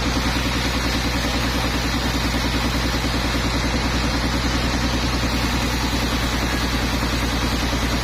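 Sawmill engine running steadily with a fast, even throb and no change in speed.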